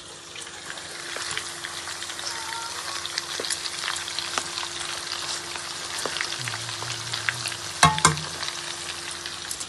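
Chicken leg pieces frying in hot oil in a pan: a steady sizzle full of small crackling pops, with two sharp knocks against the pan about eight seconds in.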